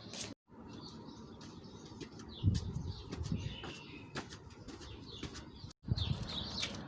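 Domestic pigeons flapping their wings, with faint bird chirps.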